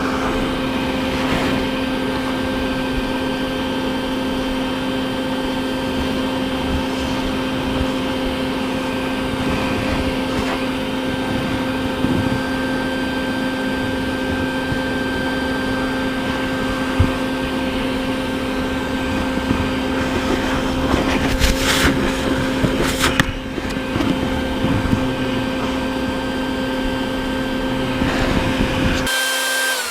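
Bee vacuum motor running steadily with a strong hum while the bees are sucked up. A few brief knocks come about three-quarters of the way through. Near the end it is switched off and winds down, its pitch falling.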